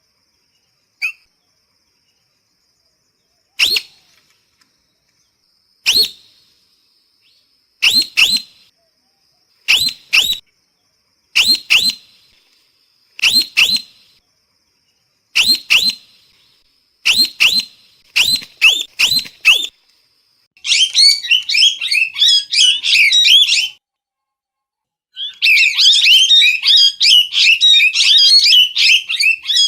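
Parrot calling: single sharp squawks a couple of seconds apart that come faster and faster, then long bursts of rapid, continuous squawking chatter from about two-thirds of the way in, with a short break between them.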